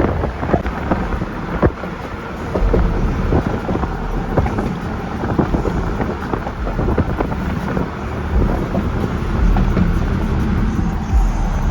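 A car on the move: steady road noise with a low rumble.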